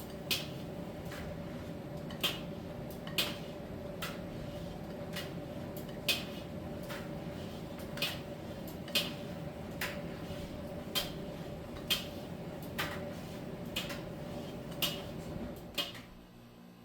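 Miele T1 heat-pump dryer running with a steady hum and a held tone. Sharp clicks come about once a second as the drum turns. Near the end the running sound drops off sharply.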